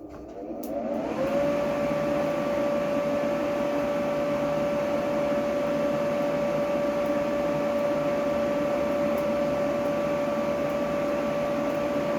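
Electric forge blower spinning up over about the first second, then running steadily with a constant hum over a rush of air, as the steel is brought back to heat between bouts of hammering.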